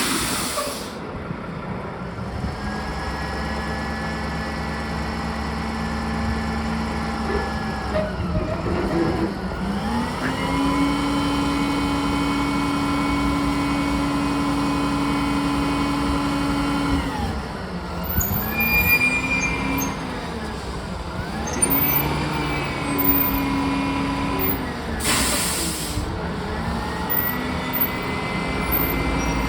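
Roll-off truck's engine running at raised revs; its pitch drops and climbs back several times. Two short bursts of air hiss come near the start and about 25 seconds in.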